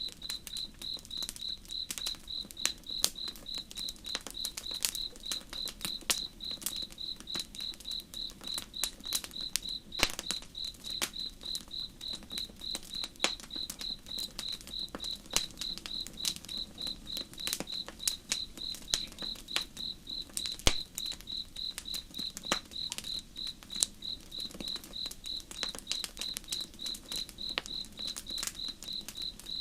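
Campfire crackling with irregular sharp pops and snaps, over crickets chirping in a fast, steady pulsing rhythm, with a faint low rush of the river beneath.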